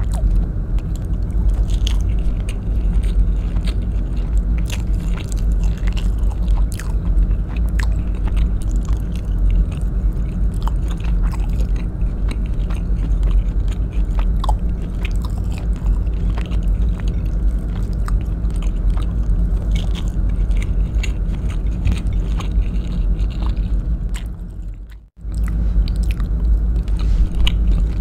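Close-miked chewing of braised beef chunks in coconut-milk sauce, with many small mouth clicks over a steady low rumble. The sound drops out briefly about three seconds before the end.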